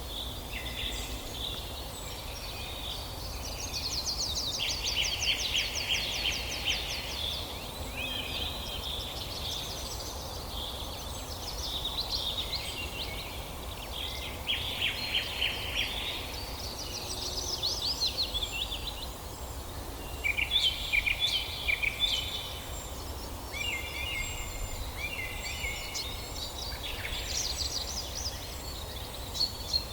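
Several songbirds singing in overlapping phrases, many of them rapid trills of a second or two, one after another throughout, over a low steady rumble.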